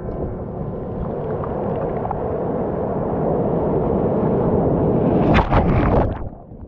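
Ocean surf rushing onto the shore, swelling steadily, with a louder crash of a breaking wave about five seconds in.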